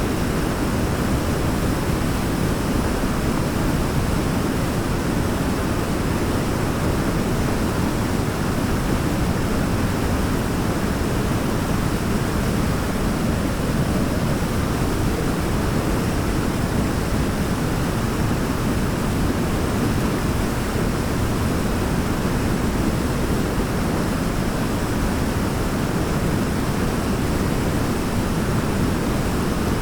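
Waterfall rushing steadily, an even noise weighted toward the low end with no breaks or single events.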